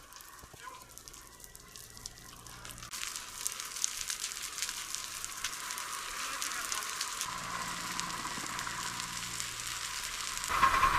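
Burning forest vegetation crackling and popping, growing louder. Near the end a loud, steady hiss sets in.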